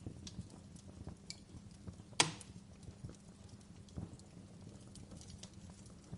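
Wood fire crackling: scattered small snaps and ticks, with one loud pop about two seconds in.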